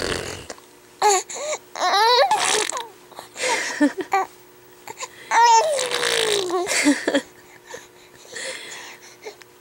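A three-month-old baby vocalizing: a string of short coos and squeals with gliding pitch. Around the middle comes a longer call whose pitch wobbles and then slides down.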